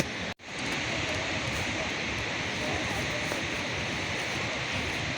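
Steady hiss of heavy rain falling, broken by a sharp click and a momentary gap right at the start.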